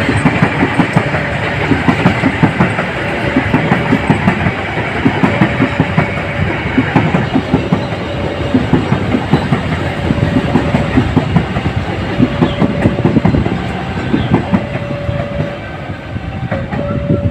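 Train rolling past close by, its wheels clattering rhythmically over the rail joints.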